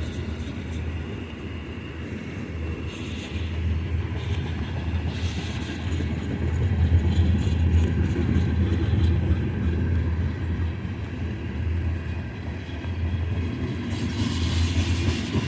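A long freight train of loaded oil tank cars rolling past, with a steady low rumble.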